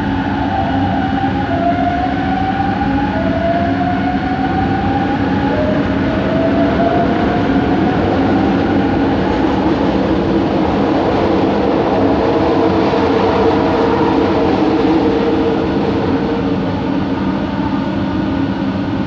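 Bombardier Innovia ART 200 metro train running, heard on board: its linear induction motor gives a series of rising whines, each a second or two long, over a steady rumble of the car and track. Later the whines give way to steadier hum tones.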